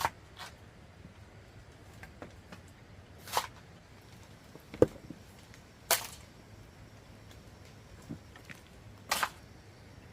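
Irregular knocks and short scraping sounds from hand work with tools, about five over ten seconds, the sharpest a single knock near the middle.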